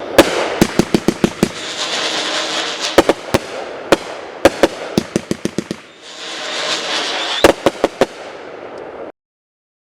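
Parrots Prattle 500 g fireworks cake firing: a continuous whistling hiss with rapid strings of sharp bangs in three flurries. It cuts off suddenly about nine seconds in.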